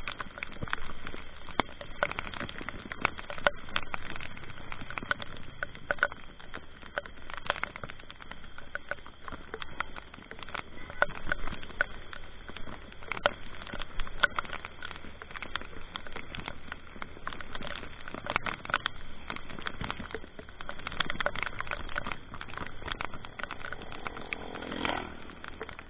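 Raindrops pattering irregularly on the microphone over the low rumble of a vehicle on the move. A brief tone bends up and down near the end.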